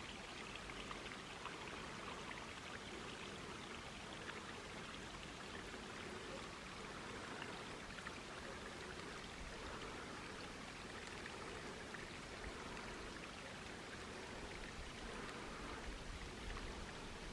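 Steady running water with a fine, even splashing patter.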